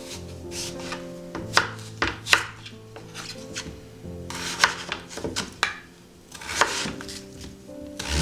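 Knife chopping vegetables on a cutting board, a dozen or so sharp strokes at uneven spacing, some in quick pairs. Soft background music with held notes plays under it.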